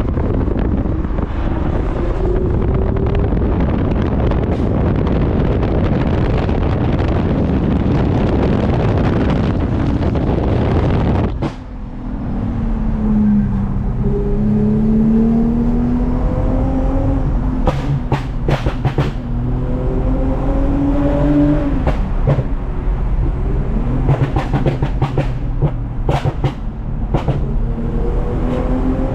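Heavy wind and road noise, then about eleven seconds in a sudden change to a modified-exhaust Toyota Mark X V6 pulling through the gears. Its note climbs, drops and climbs again several times, with a few sharp clicks in between.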